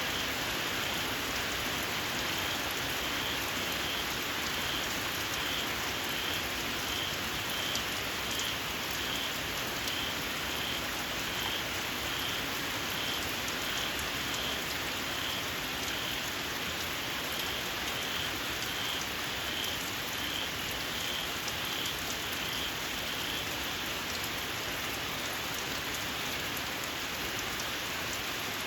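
Steady rain falling on open fields, with a small frog giving a shrill call in a regular series of short high chirps, about two a second, that stops near the end.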